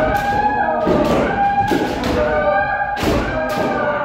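Kendo practice: several voices shouting long, overlapping kiai at once, punctuated by repeated sharp cracks of bamboo shinai striking armour and thuds of stamping feet.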